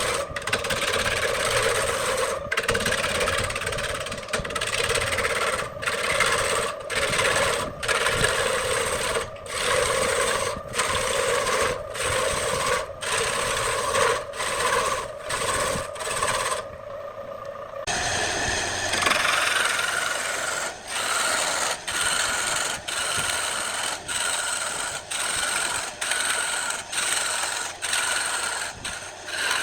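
Wood lathe turning, with a tool cutting and scraping the spinning wood in a steady rasping noise broken by frequent brief gaps. The tone changes abruptly a little over halfway through and sounds higher after that.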